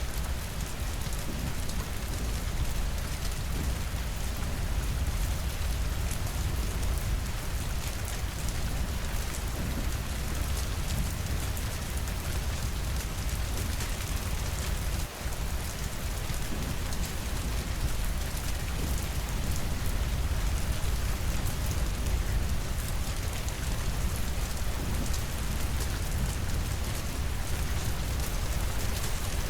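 Steady rainfall: an even hiss of falling rain with a low rumble beneath it, briefly dipping about halfway through.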